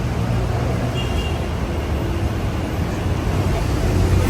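Steady city street traffic noise, engines rumbling low.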